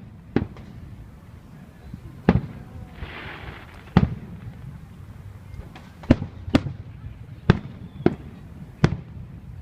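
Aerial fireworks shells bursting: about eight sharp bangs at irregular intervals, some a second or more apart and some in quick pairs, with a short burst of hiss a little after three seconds in.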